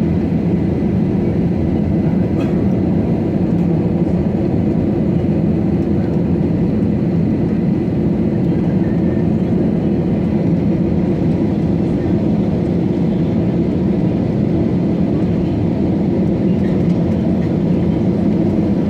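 Steady low rumble of an airliner heard from inside the passenger cabin: jet engines and airflow, unchanging in level.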